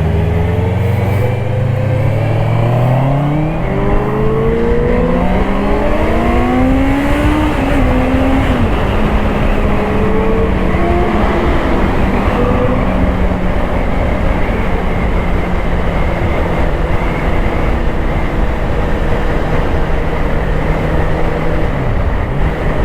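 Honda CBR650R's inline-four engine accelerating through the gears. The revs climb with upshifts over the first eight seconds, then hold at a steady cruise, with a brief dip and recovery in engine note near the end.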